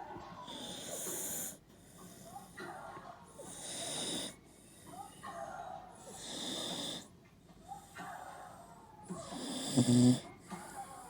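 An old Tibetan terrier snoring loudly in its sleep: four wheezy snoring breaths about three seconds apart, the last one the loudest and deepest.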